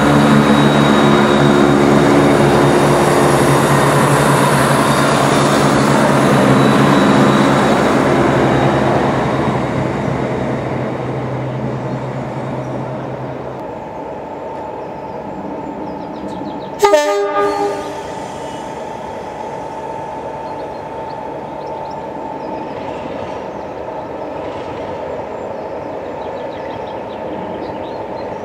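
A Southern Class 171 diesel multiple unit runs past, its engine and wheel noise steady at first and then fading away. A little over halfway through, a train horn gives one short blast. A diesel locomotive idles quietly after that.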